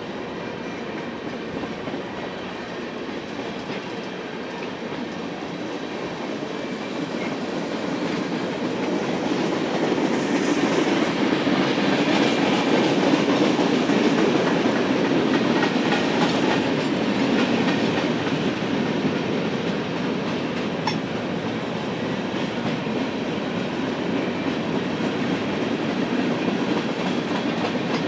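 Freight cars of a Union Pacific manifest train rolling past, with wheels clicking over the rail joints. The rumble swells to its loudest in the middle and then eases a little.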